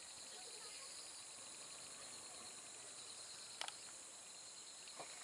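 Faint steady chirring of insects, with a sharp click about three and a half seconds in and a softer one near the end.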